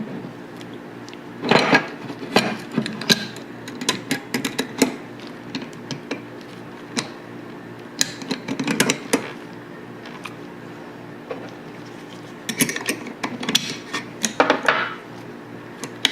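Steel parts of a Tokarev TT-33 pistol clicking and scraping as it is reassembled by hand: irregular clusters of sharp metallic clicks and short scrapes, over a steady low hum.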